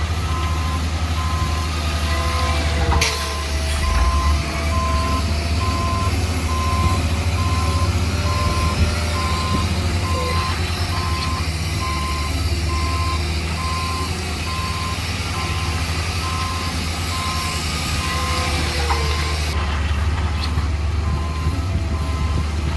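A heavy construction machine's reversing alarm beeping steadily about once a second over its running diesel engine. There is a single sharp knock about three seconds in.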